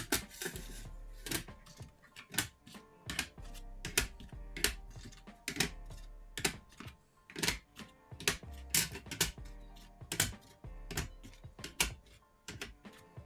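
Sharp taps and clicks of hard objects, irregular at about one to two a second, over soft background music.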